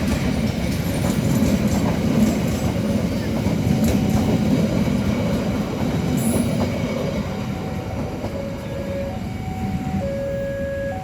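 A train rolls past at close range, a steady heavy rumble of wheels on the rails with a sharp click about four seconds in. In the second half the rumble fades, and steady electronic tones alternate between two or three pitches.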